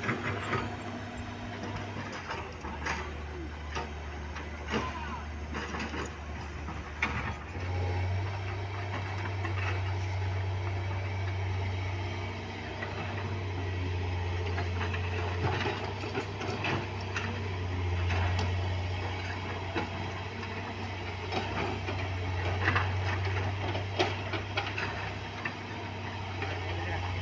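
Heavy diesel engine running steadily, its pitch stepping up or down a couple of times, with scattered clanks and knocks over it.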